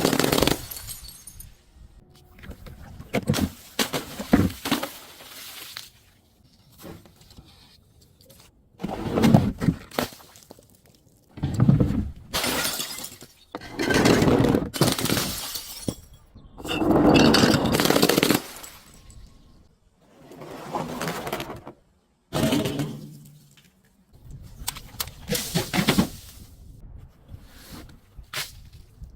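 Glass being broken and crushed in a series of crunching, shattering bursts, one every two to three seconds.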